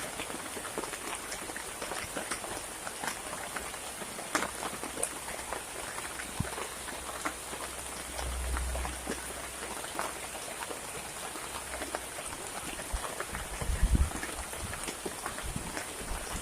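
Heavy rain falling steadily, with many separate drops ticking sharply. There is a brief low rumble about halfway through, and a few low thuds near the end.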